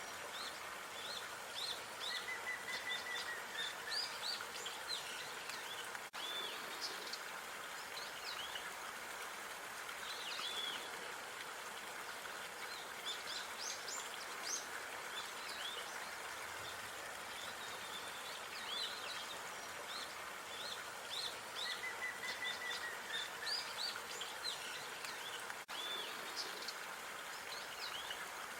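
Small songbirds chirping in quick, scattered calls, with a short trill twice, over a steady outdoor background hiss; the sound drops out for an instant twice.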